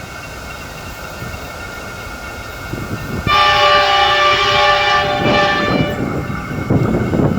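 Freight train's multi-tone air horn sounding one blast of about two and a half seconds, a few seconds in, over the steady rumble of the train, which grows louder after the horn.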